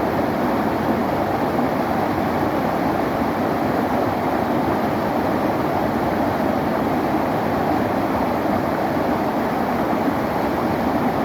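A clear river flowing: a steady, even rush of water.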